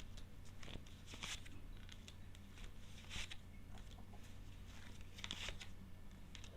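Faint rustling and sliding of tarot cards being handled and laid out, in a few short scratchy strokes spread over several seconds.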